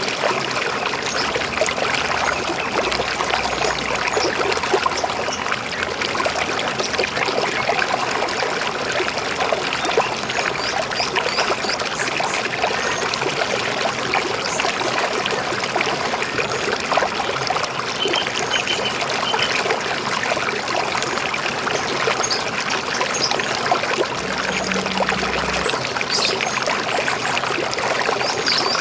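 A river flowing steadily with a continuous gurgling rush of water, and a few faint, short, high bird chirps now and then.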